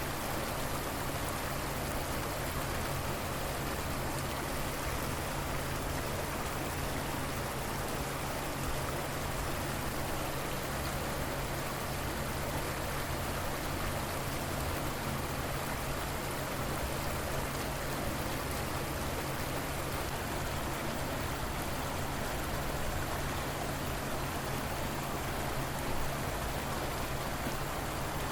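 River water flowing, a steady even wash of water noise with no breaks.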